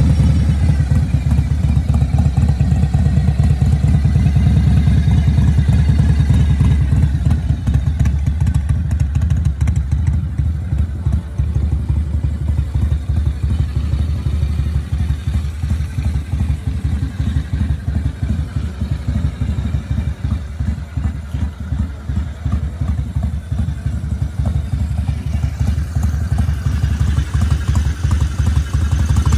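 1989 Harley-Davidson FXR's Evolution V-twin running steadily through a Bassani exhaust, a fast, even low-pitched beat with no revving.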